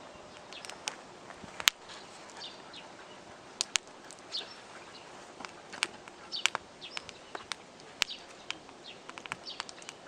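Wood campfire crackling, with irregular sharp pops over a low steady hiss, while birds chirp in the background.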